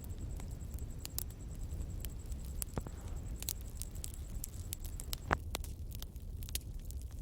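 Bonfire crackling: scattered sharp snaps and pops over a low steady rumble, with one louder pop about five seconds in.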